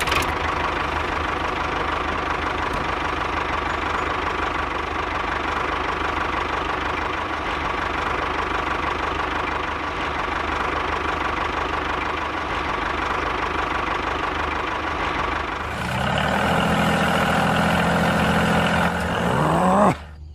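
Tractor engine running steadily, then about sixteen seconds in its note rises and grows louder, with pitch sliding up and down, before cutting off suddenly near the end.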